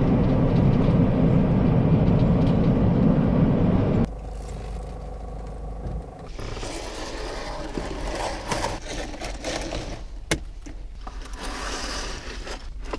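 Steady road and engine rumble inside a camper's cab at expressway speed, cutting off suddenly about four seconds in. Then much quieter scraping and clicking as truck curtains are fitted on their rails inside the camper, with one sharp click near the middle.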